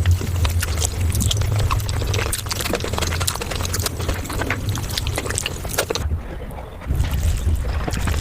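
Close-miked eating sounds of palak paneer, sped up about five times: a rapid stream of wet mouth clicks and chewing over a low rumble, with the clicks dropping out briefly near the end.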